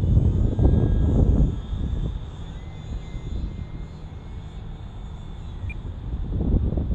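Gusty wind buffeting the microphone with a heavy, uneven rumble that eases off about a second and a half in and builds again near the end. Under it is the faint steady whine of the UMX Timber micro RC plane's small electric motor and propeller.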